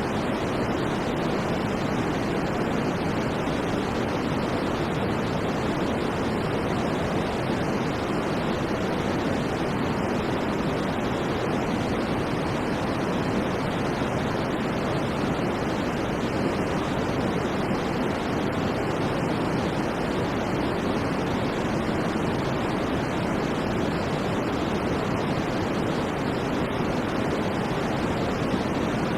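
Continuous white noise for sleep: an even, unchanging rush, fuller in the low and middle range than in the highs.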